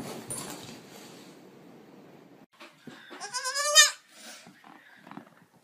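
Baby goat bleating once, a high, quavering call of under a second about three seconds in.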